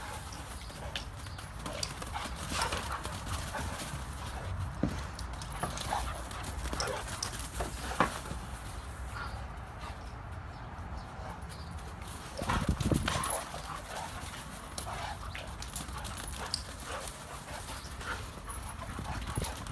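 A South African mastiff and a German shepherd puppy playing rough: scrabbling paws and clicking claws on the floor, with a sharp knock about eight seconds in and a louder patch of thumping and bumping around thirteen seconds.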